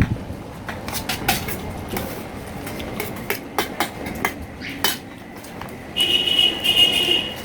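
Eating sounds: a run of sharp clicks and smacks from chewing and from cutlery on a plate. About six seconds in, a high steady whistle-like tone sounds for about a second and a half.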